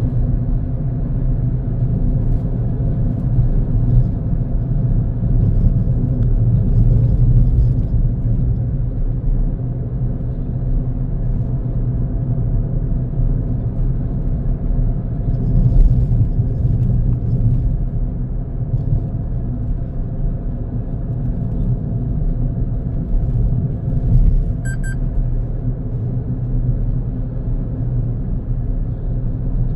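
Car driving on the road: a steady low rumble of engine and tyre noise. A brief beep sounds once near the end.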